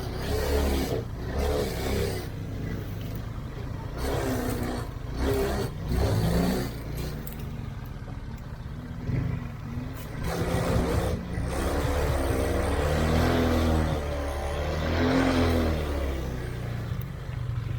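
Off-road vehicle engine running under load, revving up and falling back again and again, with a few short knocks.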